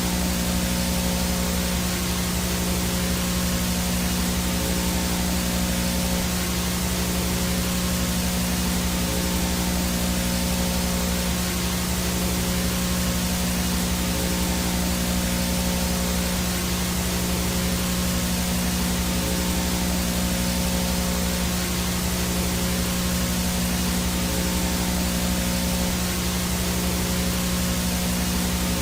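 VHS no-signal static: a steady hiss with a low buzzing hum and faint steady tones underneath, unchanging throughout.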